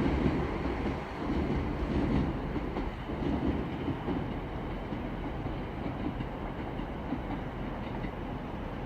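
Class 323 electric multiple unit pulling out of the station, a steady rail running noise that slowly gets quieter as it moves away.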